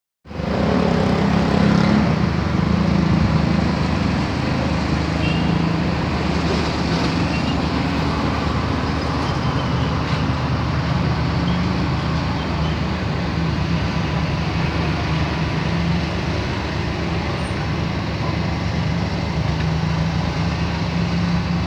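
Yamaha YBR 125's single-cylinder four-stroke engine running steadily, a little louder in the first few seconds.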